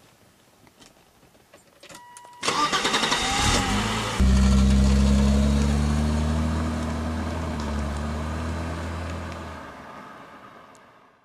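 Car engine cranked over by its starter for a couple of seconds, then catching at about four seconds in and running steadily, fading away near the end.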